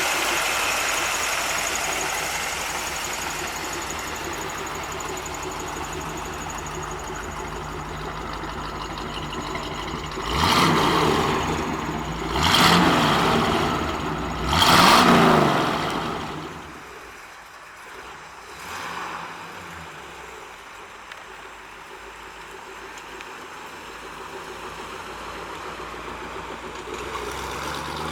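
Chevrolet 350 cubic-inch V8 running, revved three times about ten, twelve and fifteen seconds in, then dropping back to a quieter idle with one short blip of the throttle.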